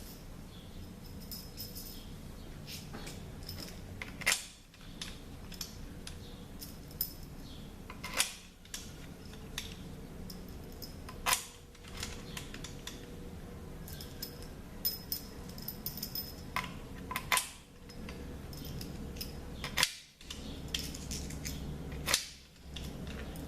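Metal transmission valve-body bolts and hand tools clinking and clicking as they are sorted and handled, with about six sharper metallic clacks spread through. A low steady hum runs underneath.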